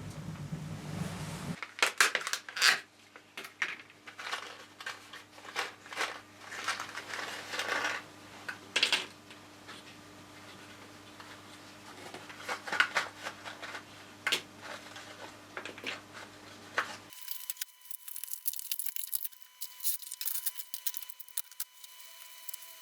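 Small objects being handled by hand: irregular clicks, taps and rustling. The room hum under them changes abruptly at two cuts, about a second and a half in and about three-quarters of the way through.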